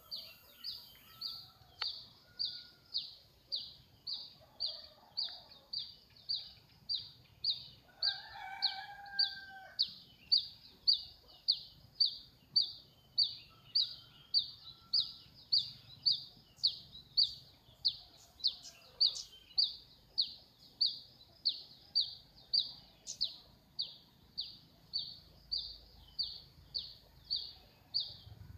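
A bird repeating a short, high, falling note about twice a second, steadily throughout. A rooster crows once, about eight seconds in.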